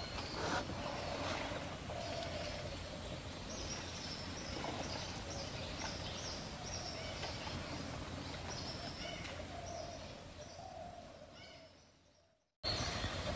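Forest ambience with a bird calling over and over, short high chirps about twice a second, over a steady low background hiss. The sound fades out near the end and drops to silence for a moment.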